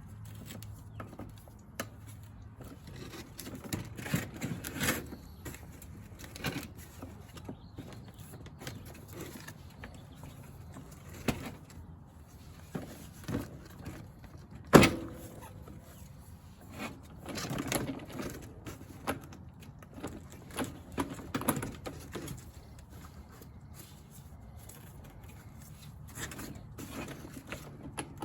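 Scattered clicks, knocks and rattles of parts being handled and fitted while a broadcast seed spreader is reassembled, with one sharp knock about 15 seconds in.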